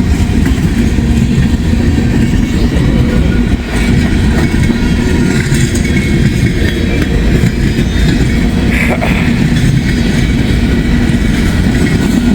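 Freight train cars rolling past close by: a loud, steady rumble of wheels on rail with a constant low hum and occasional faint clicks.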